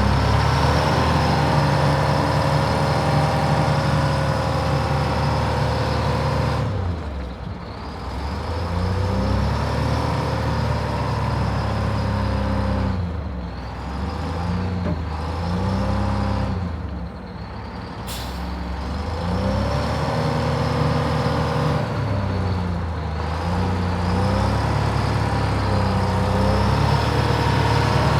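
A heavy diesel vehicle engine running, its pitch rising and falling several times as it is revved and eased off.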